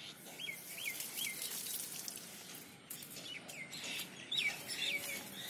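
A bird calling over and over: short notes that each slide down in pitch, three in quick succession near the start and more, some in pairs, later on.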